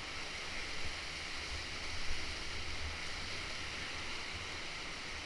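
White water of a river waterfall rushing steadily, an even hiss with a low rumble underneath.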